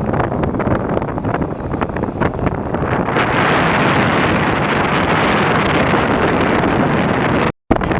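Wind buffeting the microphone over a steady rushing noise that grows stronger about three seconds in; the sound cuts out for an instant near the end.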